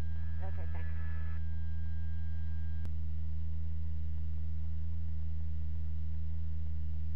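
Steady low electrical hum, a buzz with several overtones, in the radio recording between transmissions. A faint thin higher tone runs under it and stops with a small click about three seconds in.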